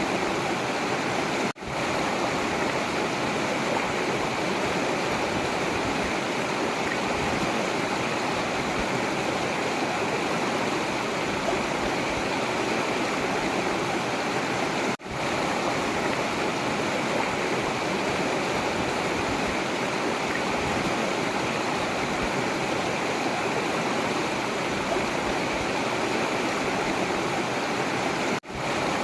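Forest river water rushing and flowing steadily. The sound drops out for a split second three times, about every thirteen seconds.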